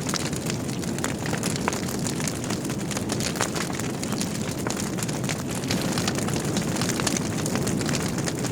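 Wood logs burning in a fireplace: a steady low rumble of flames with frequent small crackles and pops throughout.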